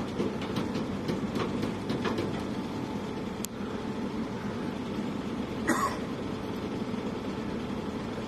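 A steady low engine hum, with a few scattered clicks and a short noisy burst about six seconds in.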